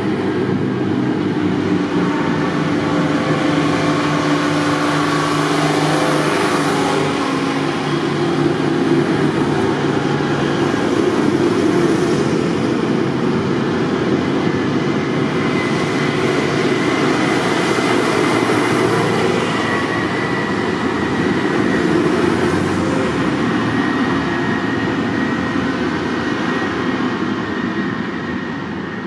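Tractor engines running steadily, their low engine note wavering as they move.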